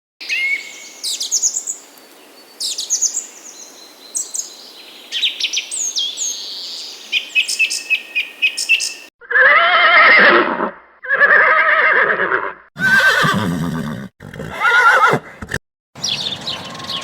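Birds chirping and calling for about nine seconds, then a run of about five loud, drawn-out animal calls, each lasting a second or so.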